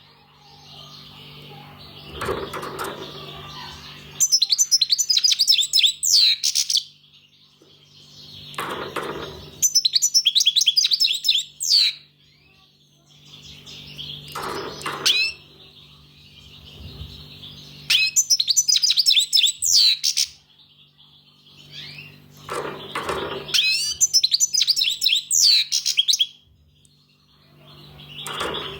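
European goldfinch singing: bursts of rapid, high twittering notes, repeated about every six seconds with quieter chatter in between.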